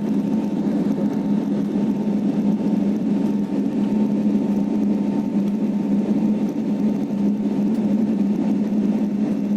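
Steady jet-engine drone heard inside an airliner cabin during take-off and climb: an even, unchanging low hum with a faint steady higher tone over a wash of airflow noise.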